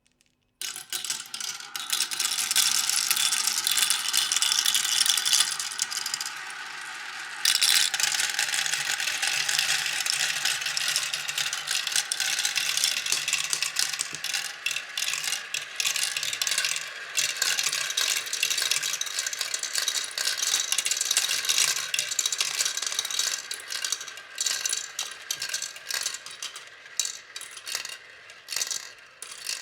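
Many marbles clattering down a wooden marble run: a dense, continuous rattle of balls knocking on wood and on each other. It drops off briefly about a quarter of the way through, then returns and thins out into separate clicks near the end.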